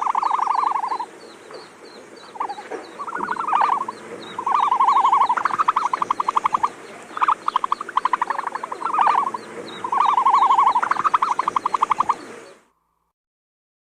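Animal calls: repeated bouts of fast pulsed trilling, each about a second long, over a faint steady chorus of high ticks. The sound cuts off suddenly about a second before the end.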